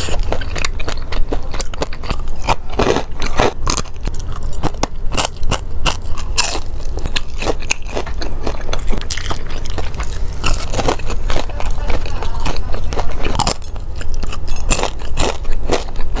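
Close-miked mukbang eating: biting into and chewing crunchy food, with many irregular crisp crunches and crackles over a low steady hum.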